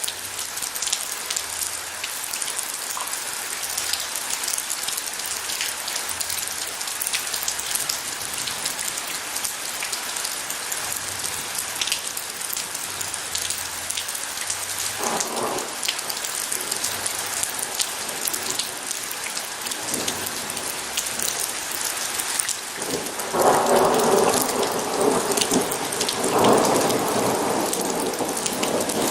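Steady heavy rain falling, with a short roll of thunder about halfway through and a louder, longer roll of thunder in the last few seconds.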